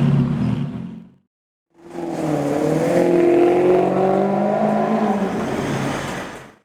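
A Lamborghini supercar's engine running, its pitch easing slowly downward. It follows a brief cut to silence about a second in and fades out near the end.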